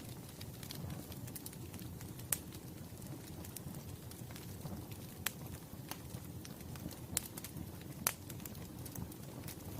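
Wood fire crackling under a steady low rumble, with many small ticks and four sharper pops spread through.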